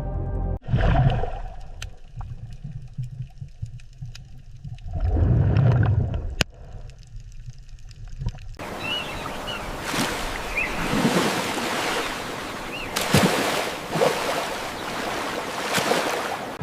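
Underwater ocean ambience: a low rumble with two slow swells, then, after a sudden change about halfway, a loud hiss of rushing water that surges several times.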